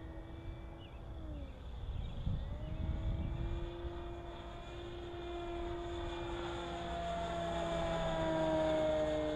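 Electric motor and propeller of an E-Flite Carbon-Z Cessna 150 model airplane in flight: a steady whine. It dips in pitch about a second in, picks back up, then grows louder toward the end with its pitch sliding down as the plane passes.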